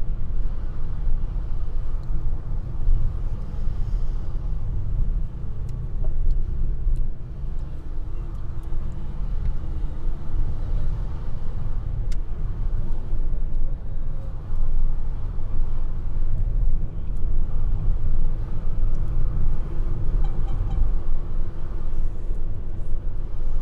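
Steady road and engine rumble of a 1.2-litre Opel Corsa driving along, heard from inside the cabin.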